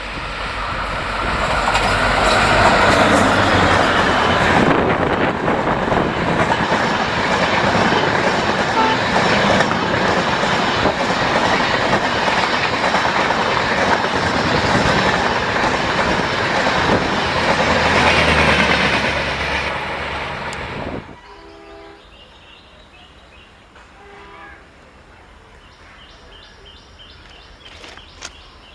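Diesel-hauled Indian Railways train passing close by, its wheels clattering over the rails. The noise is loud for about twenty seconds, then falls away suddenly.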